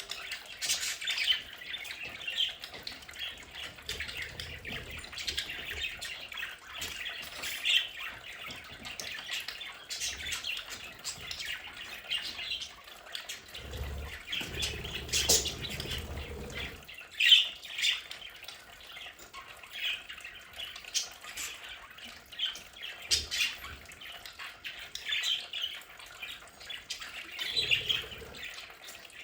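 A flock of budgerigars chattering, chirping and squawking continuously. A few short low rumbles come and go beneath the chatter, the longest about halfway through.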